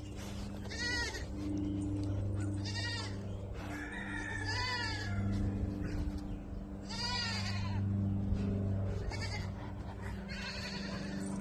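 Goats bleating: about six separate quavering calls, each under a second long, coming every couple of seconds.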